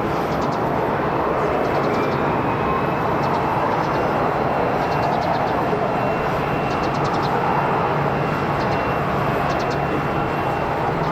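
Jet airliner on approach to land, its engines giving a steady rushing noise with a faint high whine over it.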